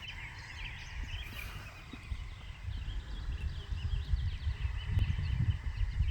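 Pileated woodpecker hammering and chiseling at a dead stump: irregular dull knocks, with one sharp knock about five seconds in. Small birds chirp in the background.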